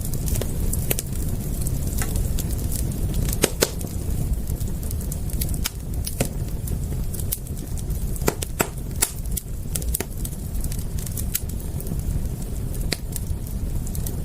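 Campfire crackling: irregular sharp pops and snaps, a few of them louder, over a steady low rumble.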